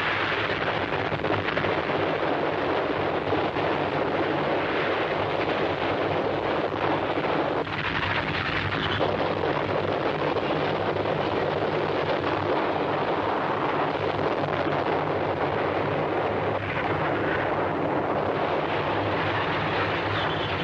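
Earthquake sound effect: a continuous heavy rumble of noise at a steady level, with a low hum underneath.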